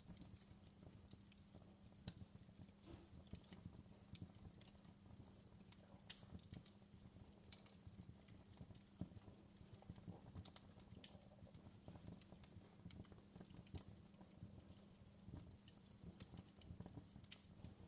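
Faint crackling of a wood fire in a fireplace: irregular small pops and snaps over a low steady hum.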